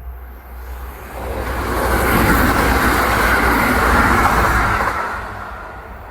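Kintetsu electric train passing through without stopping, its noise swelling to a peak about two seconds in, holding, and fading away near the end.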